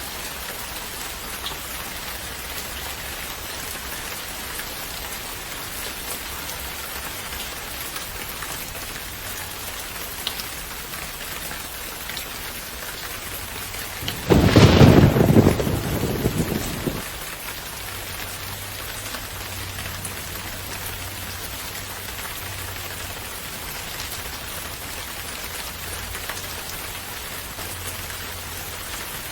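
Steady rain falling, with one clap of thunder about halfway through that cracks suddenly and rumbles away over about three seconds.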